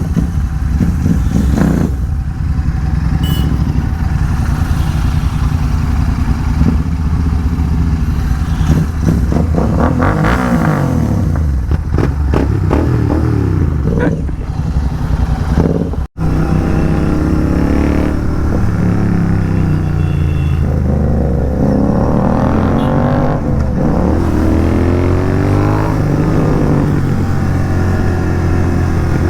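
Royal Enfield Continental GT 650's 648 cc parallel-twin engine through an aftermarket megaphone exhaust, running on the road as the throttle is opened and closed, its pitch climbing and falling again several times through the gears. The sound cuts out for a split second about sixteen seconds in.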